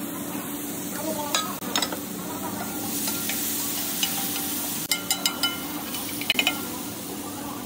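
Chole sizzling on a hot flat metal tawa while a metal spoon stirs and mashes it, tapping and scraping against the griddle. There are sharp clicks about a second and a half in, and a quick run of them around five seconds and again just after six.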